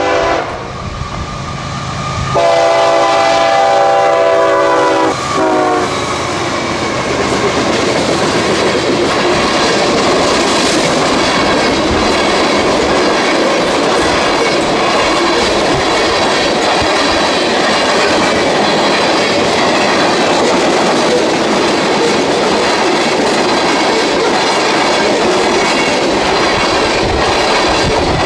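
A train passes close by. Its locomotive air horn sounds a chord for about three seconds, starting about two seconds in and dipping briefly near the end of the blast. Then comes the steady rumble and clatter of the train rolling past on the rails.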